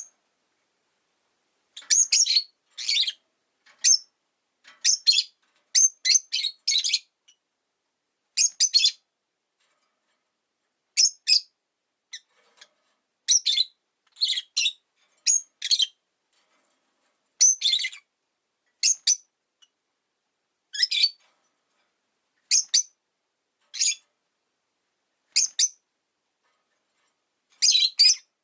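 Rosy-faced lovebird giving short, high-pitched chirping calls, singly or in quick clusters of two or three, with pauses of a second or two between them.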